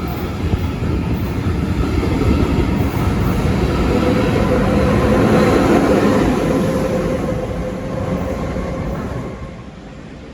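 A train running past, its rumble and a faint steady whine swelling to a peak about halfway through, then fading near the end.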